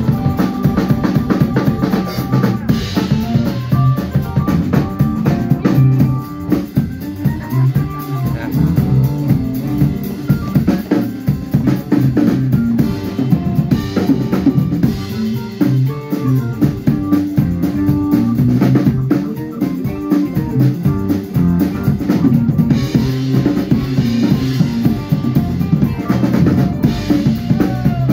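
Band music led by a drum kit, with bass drum and snare strokes under sustained pitched instrument notes.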